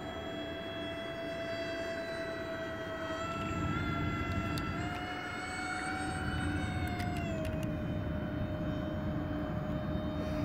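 Electric ducted-fan motors of a radio-controlled model airliner whining steadily in flight over a rush of air. The pitch rises a little about five seconds in and drops back about two and a half seconds later, as the throttle or the plane's distance changes.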